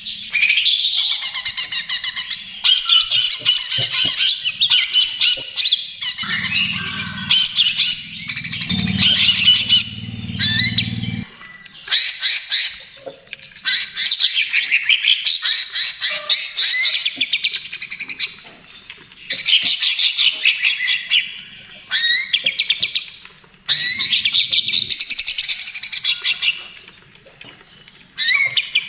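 Cucak ijo (greater green leafbird) singing in long runs of fast, chattering notes and whistles, broken by short pauses. A low hum sits underneath from about six to eleven seconds in.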